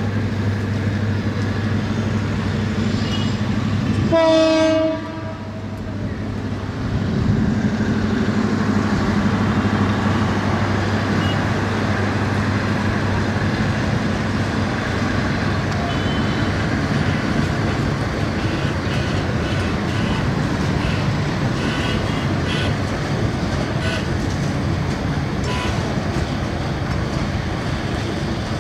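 Metre-gauge passenger train running through a station without stopping: the steady rumble of the coaches rolling past, with one short diesel locomotive horn blast about four seconds in. In the second half there are scattered clicks as the wheels pass over the track.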